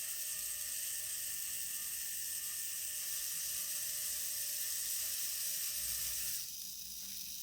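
Small electric drive motor and plastic gear train of a toy line-follower car running with a steady whir. It cuts off about six seconds in.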